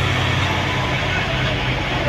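Heavy truck's diesel engine running with a steady low drone, over a haze of road noise.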